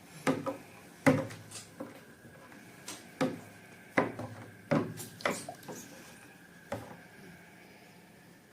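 Irregular sharp taps and clicks of small objects being handled, about a dozen of them, with a faint steady tone underneath.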